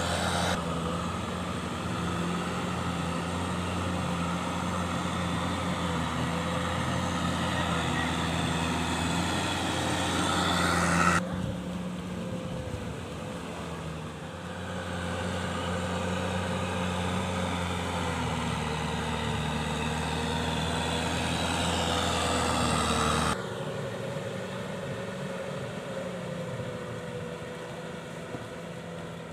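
Kubota M6040SU tractor's diesel engine running steadily. The sound changes abruptly twice, about 11 and 23 seconds in, as if cut between recordings.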